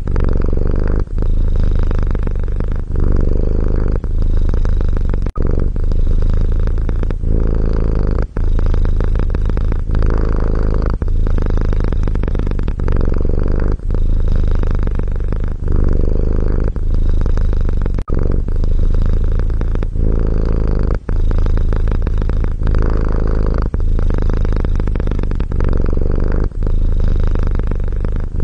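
Domestic cat purring close up, a steady low rumble that pulses with each breath in and out, about one breath a second or so.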